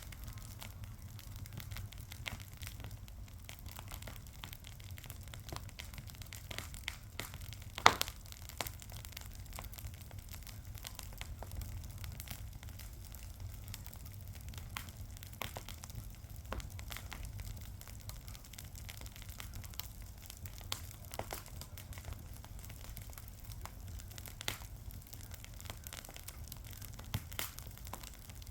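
Wood fire crackling: a steady low rumble with frequent small pops and snaps, and one sharper, louder pop about eight seconds in.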